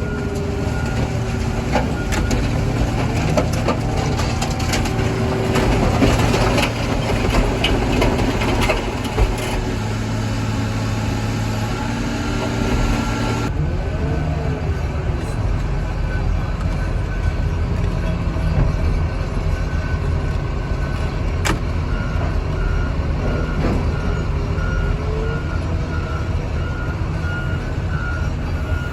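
Heavy equipment engine running steadily while scrap car metal crunches, scrapes and knocks through the first half. Later a reversing alarm beeps in an even, repeating pattern.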